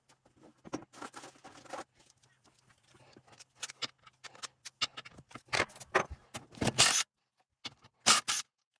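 Metal parts of a transfer case being handled during disassembly: irregular clicks, clinks and short scrapes, busiest in the second half, over a faint steady low hum.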